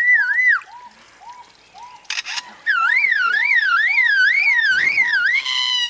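Lyrebird mimicking a car alarm: a loud warbling whistle sweeping up and down about twice a second, briefly at the start and again for about three seconds from about a third of the way in. A short, lower note repeats steadily about three times a second underneath.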